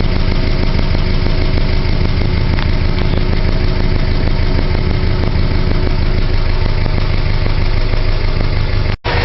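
Subaru EJ22 flat-four engine idling steadily while warming up toward operating temperature after a top-end rebuild. The sound cuts out abruptly for a moment near the end.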